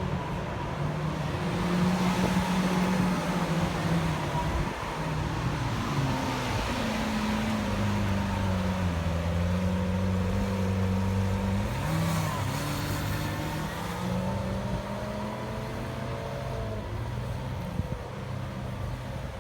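Lamborghini Aventador S's V12 engine running at low revs, its pitch stepping up and down a few times, with a short throttle blip about twelve seconds in.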